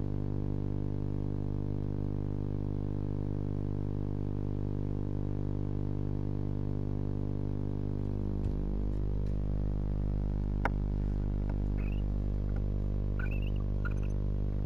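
Steady electrical hum with many harmonics from the nest-box camera's audio, with a faint falling tone just past halfway. From about two-thirds of the way in come a sharp click and a handful of short, high chirping calls with small clicks: a barn owl pair twittering in the box.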